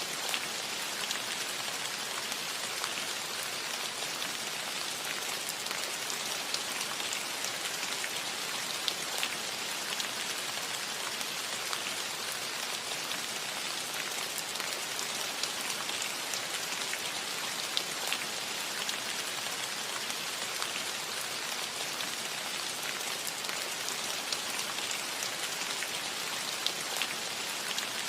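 Steady rain falling on a cottage roof, a dense even patter with many individual drops clicking sharply over it.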